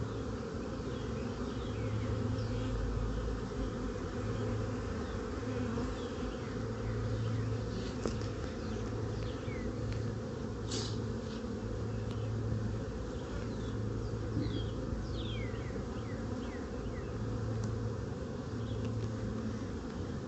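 A honeybee colony from a freshly hived swarm buzzing in a steady hum that swells and fades, with the hive open for inspection. Short faint high chirps come and go over the hum.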